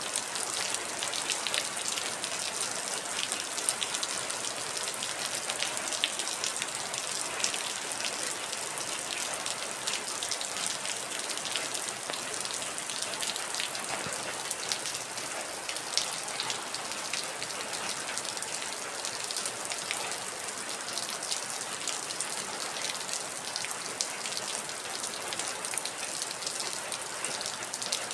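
Heavy rain falling steadily, a dense hiss with many individual drops pattering on a surface.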